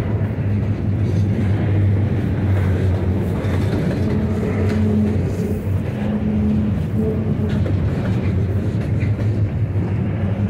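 Double-stack intermodal freight train's loaded well cars rolling past, a steady low rumble of steel wheels on rail with faint humming tones that come and go.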